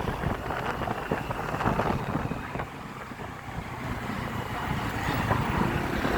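Wind buffeting the microphone over the running of a motorbike and traffic noise, heard from the back of a moving motorbike taxi. It eases briefly about halfway through.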